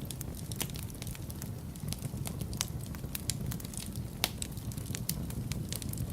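Wood fire burning in a fireplace: irregular crackles and sharp pops, several a second, over a steady low rumble of the flames, with one louder pop a little past the middle.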